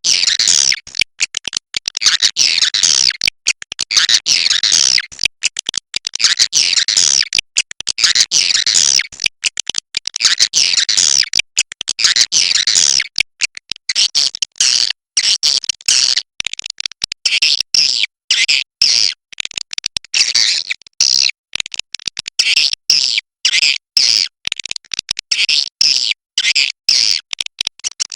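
Swiftlet calls: rapid, dense twittering chirps, high-pitched, coming in packed runs and then, about halfway through, in separate clusters with short gaps. It is the 'inap' (roosting) call of the kind played to lure swiftlets to roost.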